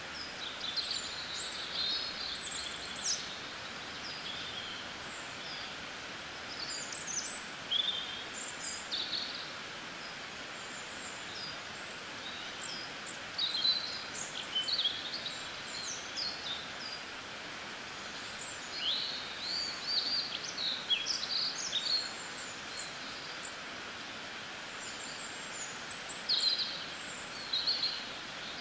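Small birds chirping and calling in short, scattered phrases over a steady outdoor background hiss.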